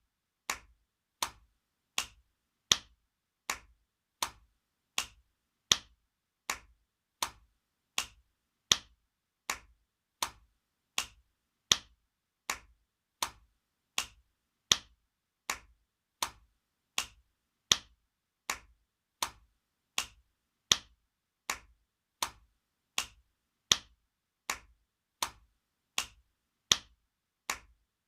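Spanking sound effect: a sharp open-hand slap on skin, repeated in a steady loop about every three-quarters of a second, with every fourth slap louder.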